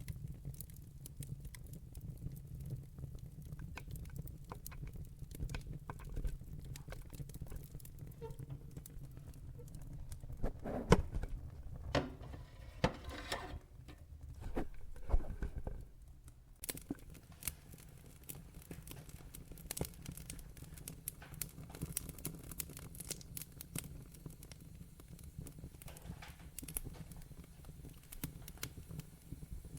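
Wood fire burning in a fireplace: logs crackling with a constant scatter of small snaps and a low steady rumble. A cluster of louder pops comes about a third of the way in, and the low rumble drops away a little past halfway while the crackling goes on.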